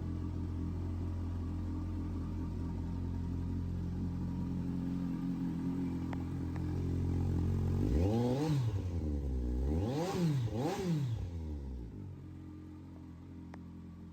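Kawasaki GTR1400's inline-four engine with an aftermarket Delkevic exhaust, idling steadily and then blipped three times in quick succession about eight seconds in, each rev rising and falling back before it settles to idle again.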